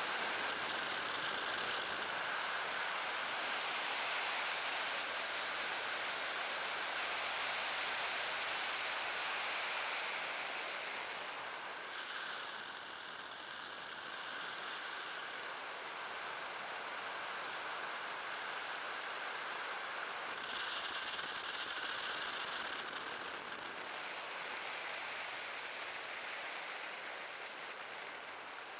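Steady rushing noise with no clear tone, dipping slightly about twelve seconds in.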